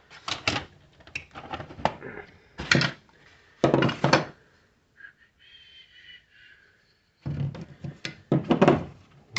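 Objects being handled and set down, a series of knocks and thunks with short pauses between them.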